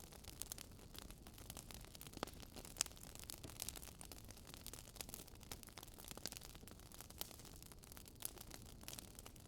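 Wood fire crackling in a fireplace: irregular small snaps and a few sharper pops over a faint low rumble of storm wind.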